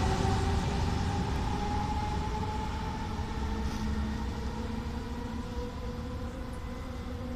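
An E.464 electric locomotive and its double-deck coaches running away into the distance, the rumble and the motor whine gliding slowly lower and fading.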